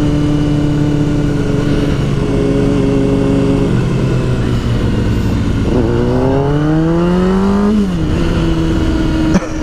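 2007 Kawasaki ZX-6R's inline-four engine running steadily while riding, then revving up in one smooth rising whine from about six seconds in before dropping back about two seconds later.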